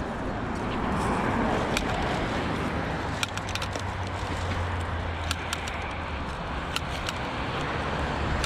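Road traffic passing around a busy roundabout: a steady rush of tyres and engine hum that swells as a vehicle goes by, with scattered light clicks and rustles close by.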